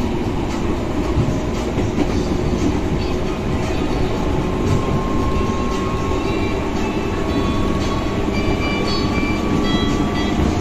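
KRL commuter electric train heard from inside the carriage while running along the line: a steady rumble of wheels on rail with a few steady tones over it and faint clicks.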